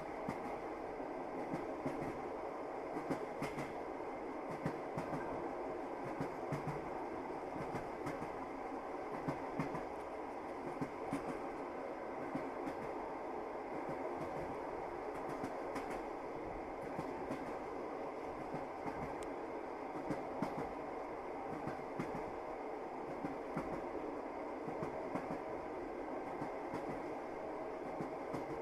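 Train wheels running over the rails at steady speed: a constant rumble with frequent, irregular clicks and knocks.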